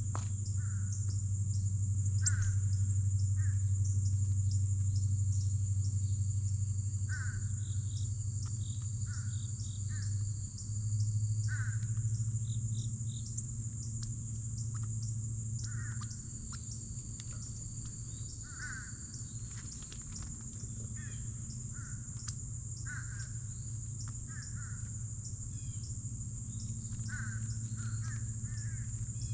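Crows cawing again and again over a steady high-pitched insect drone, with a low steady hum underneath.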